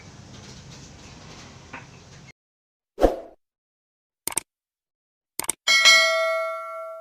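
A low thud, two short sets of clicks, then a bell-like chime that rings with several steady tones and slowly fades, set against dead silence after faint background ambience cuts off about two seconds in.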